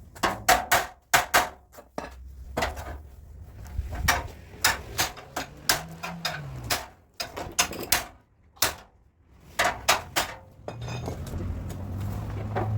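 Hammer blows on a car's sheet-metal front fender during dent work: sharp, irregular strikes in quick clusters. Near the end a steady low hum starts.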